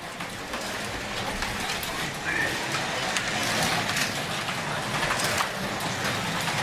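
Digital slot cars running laps on a plastic track: a steady whir of small electric motors and wheels rattling along the slots, with scattered light clicks.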